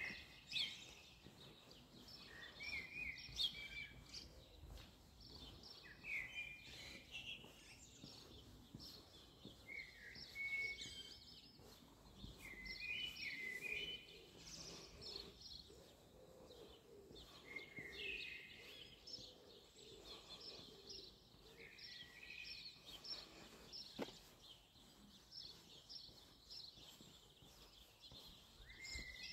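Small songbirds singing, short chirping phrases repeated every second or two, over quiet outdoor background noise.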